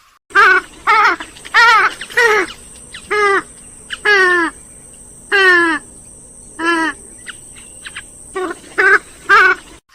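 Grey-headed swamphen calling: a run of about a dozen short, loud calls in quick succession, several of them sliding down in pitch.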